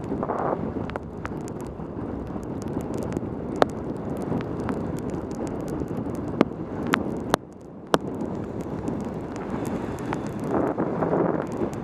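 Wind rushing over a helmet-mounted camera's microphone on a fast bicycle descent in the rain, with scattered sharp ticks. The rush drops out briefly about seven and a half seconds in.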